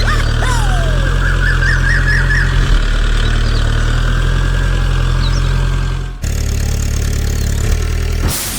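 Engine idling steadily, with a low, even running note that switches abruptly to a slightly different steady note about six seconds in.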